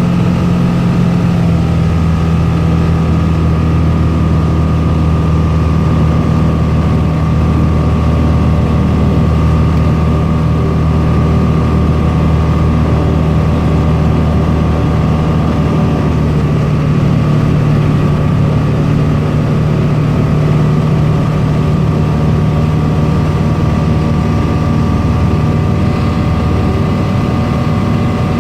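Tecnam P92 Echo light aircraft's piston engine and propeller running steadily. The engine note drops slightly about a second and a half in, then holds.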